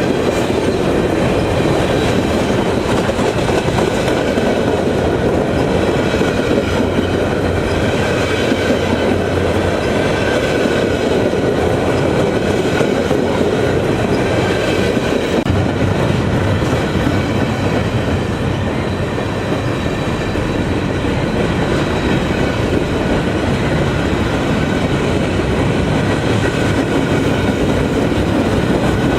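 Railroad cars rolling past on the track: a steady, loud rumble of wheels on rail, with a faint high-pitched wheel squeal wavering above it.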